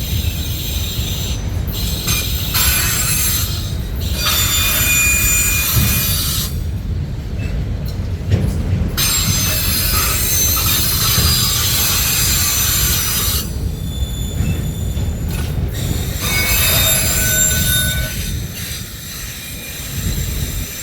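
Freight cars of a CSX train rolling past with a steady low rumble of wheels on rail. High-pitched flange squeal from the wheels comes and goes in stretches of a couple of seconds.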